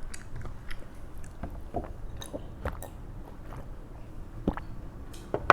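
A person chewing food close to the microphone, with soft, irregular mouth clicks and smacks and a sharper click near the end.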